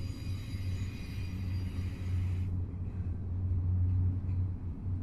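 Freight train rolling past: a steady low rumble, with a faint high hiss that stops abruptly about halfway through.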